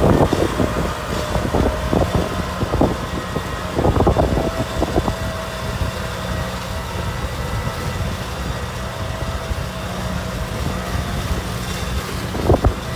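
Kubota M6040 tractor's diesel engine running steadily, with scattered sharp knocks and clanks, bunched in the first few seconds and again near the end.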